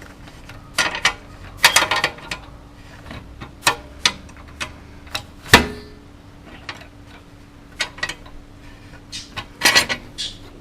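Irregular metallic clicks and clanks from a jack and the motorcycle's rear suspension parts as the bike's back end is lowered, with one sharper knock about five and a half seconds in, over a faint steady hum.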